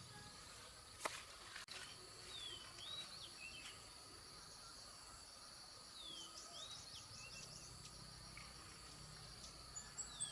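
Faint country ambience: insects trilling steadily at a high pitch, and a bird giving a short group of swooping chirps twice, about two and a half and six seconds in. A single faint knock comes about a second in.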